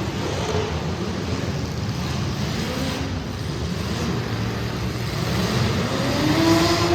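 Street stock race car engines running hard on track, with a steady low rumble and an engine note that climbs near the end as a car accelerates.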